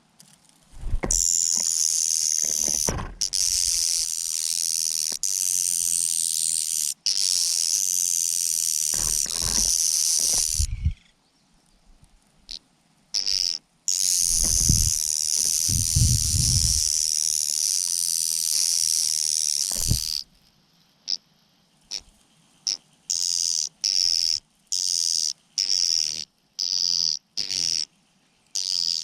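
Hungry mynas giving harsh, high-pitched hissing begging calls while competing for food, in long unbroken stretches of several seconds and then as short calls repeated about twice a second near the end. A few low thumps from the birds jostling come in between.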